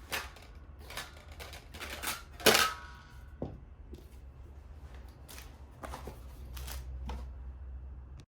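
A series of irregular clicks and knocks, as of objects being handled, the sharpest about two and a half seconds in, over a steady low hum.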